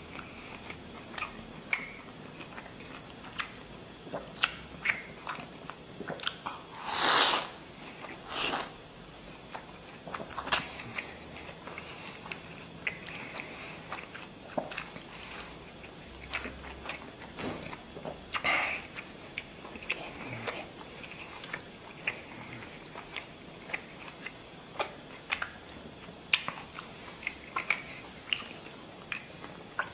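Close-up eating sounds: a person chewing and biting hot-pot lamb, with many small wet mouth clicks. Two longer, louder bursts of noise come about seven and eight and a half seconds in.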